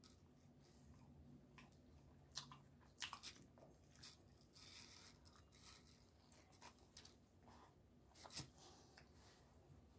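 Faint chewing of a bite of chicken sandwich topped with crunchy jalapeño chip pieces, with a few sharper crunches around three seconds in and again near the end.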